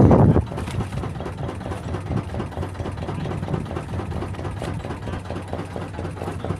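A brief burst of wind on the microphone, then an engine running steadily at idle with an even, throbbing pulse.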